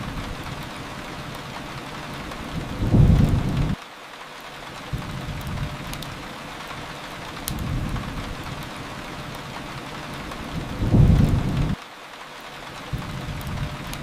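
Steady rain falling, with two low rumbles of thunder swelling about eight seconds apart, each cutting off abruptly.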